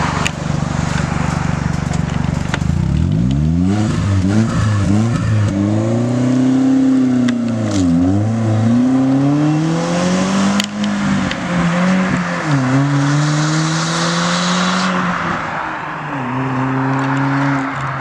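Hyundai Genesis Coupe 2.0T turbo four-cylinder with its muffler deleted. It idles for a couple of seconds, then revs up and pulls away, its pitch rising and dropping back several times.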